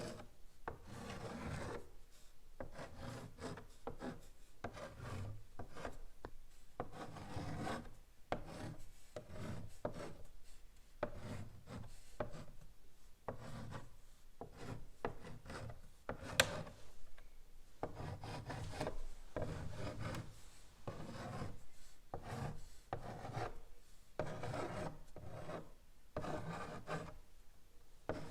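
Chalk writing on a blackboard: a steady run of short, scratchy strokes, with one sharp tick about sixteen seconds in.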